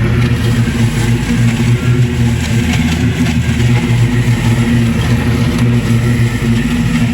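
Engine running steadily at a constant speed, with no rise or fall in pitch.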